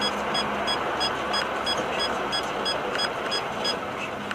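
Steady road and engine noise of a moving vehicle heard from inside the cab, with a short high electronic beep repeating about three times a second.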